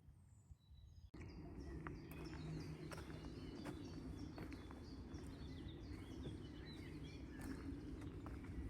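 Several small birds chirping and singing over steady, low outdoor background noise, with scattered light clicks. The sound comes in abruptly about a second in, after near quiet.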